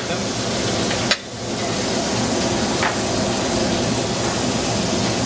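Steady sizzle of food frying in hot fat, with a sharp click about a second in, where the sizzle briefly drops away, and another click near three seconds.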